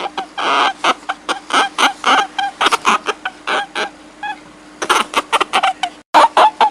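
A rapid series of short, high-pitched animal calls, several a second, broken by a brief dropout near the end, over a low steady hum.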